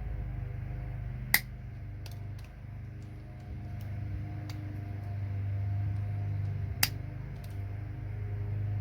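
Side cutters snipping gold-plated connector pins: two sharp snaps several seconds apart with a few lighter ticks between, over a steady low hum.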